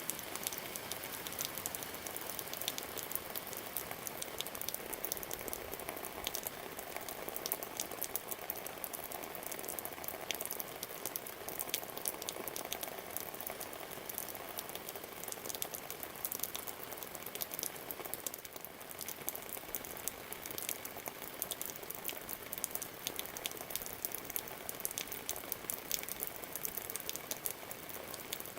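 Steady rain: a constant hiss dense with many close, irregular raindrop ticks and patter.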